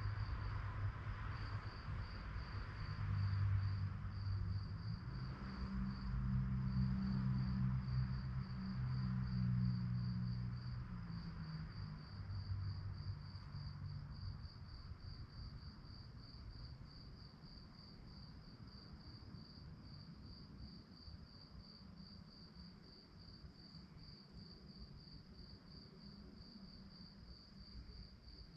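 Crickets chirping at night in a steady run of evenly spaced, high-pitched pulses. A low rumble underneath is loudest in the first half and fades away about halfway through.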